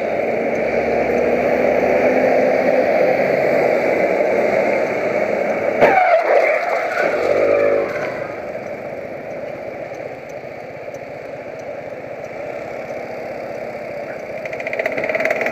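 Engine and road noise of a moving car, broken about six seconds in by a sharp bang, the impact of a collision, followed by a brief pitched tone; the driving noise then runs on lower.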